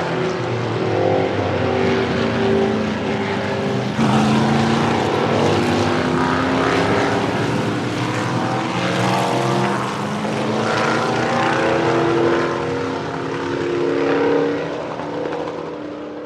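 Vintage Indy race cars from the 1960s to the 1980s accelerating hard onto the straight, several engines at once, their exhaust notes rising through the gears and dropping at each upshift. The sound fades out near the end.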